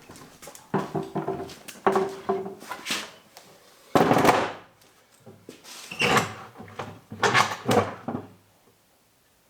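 Wooden knocks and scraping as parts of an antique oak table are handled and fitted back together: several sharp knocks, a longer scrape about four seconds in, and a few more knocks before it falls quiet near the end.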